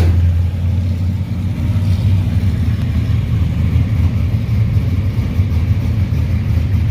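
Classic hot-rod car engine idling steadily, low-pitched, warmed up.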